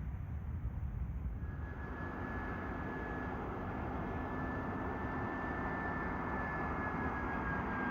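Jet airliner's engines on landing approach: a steady high whine and a lower hum come in about a second and a half in over a low rumble, growing slowly louder, the whine dipping slightly in pitch near the end.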